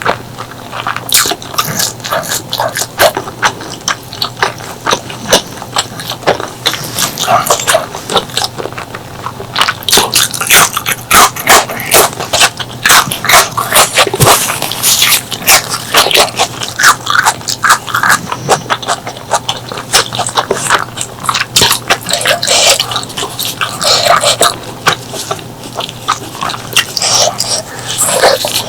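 Close-miked eating sounds: wet chewing and rapid lip smacking as a person eats pork leg curry with rice, with loud clicks and smacks through the whole stretch.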